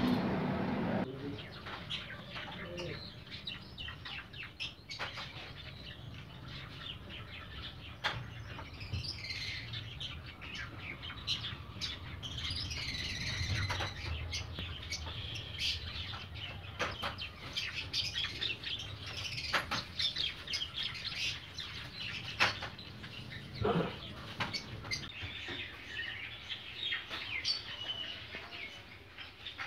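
Small birds chirping on and off, with wings fluttering and scattered sharp clicks and knocks.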